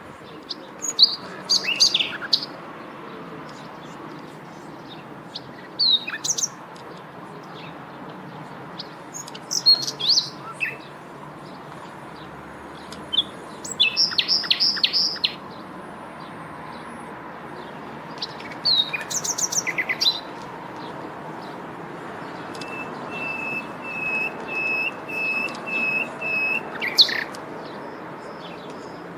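Several birds chirping and calling over a steady outdoor background hiss: short bursts of high chirps and quick trills come every few seconds, and near the end one bird repeats the same short note about seven times at an even pace.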